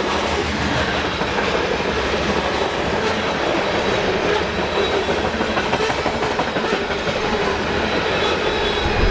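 Loaded gondola cars of a CSX freight train rolling past: a steady rumble of steel wheels on rail, with clicking over the rail joints.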